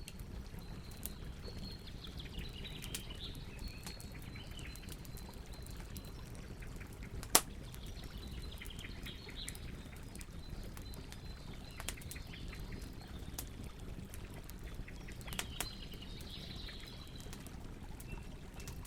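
Campfire burning with a steady low rumble and frequent sharp crackles and pops, one much louder pop about seven seconds in. Faint high wavering whistles come and go.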